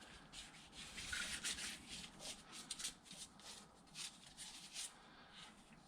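Faint, irregular rubbing and scuffing in many short strokes, as parts are handled on a workbench.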